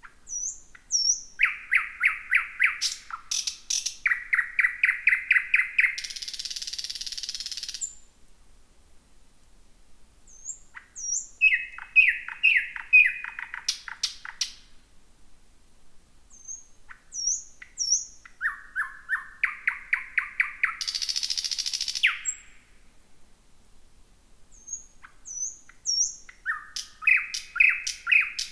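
Thrush nightingale singing: four phrases a few seconds apart, each opening with thin high whistles and going into fast runs of loud repeated notes; two of the phrases end in a dry rattle lasting a second or two.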